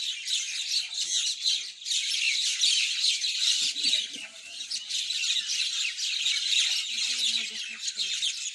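A flock of mynas chattering: many overlapping harsh chirps and squawks without a break.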